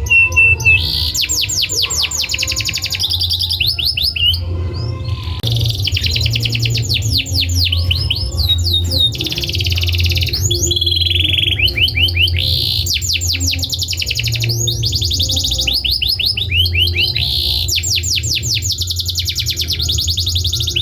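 Domestic canary singing: fast trills of repeated falling notes in phrases of a second or two with short breaks, over a steady low hum.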